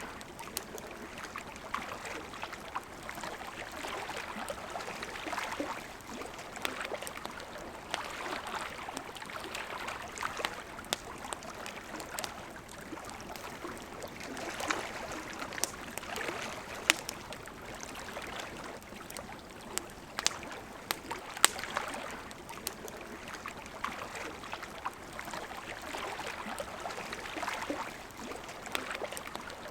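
Wood fire crackling and popping, with frequent sharp snaps, over the steady rush of a flowing river.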